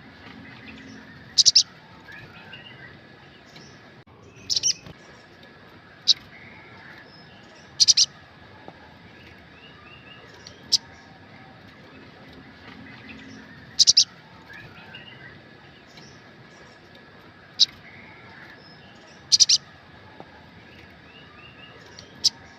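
Sunbird giving short, sharp, high call notes, single or in quick pairs, every couple of seconds; this is a lure call used to get captive birds to call back.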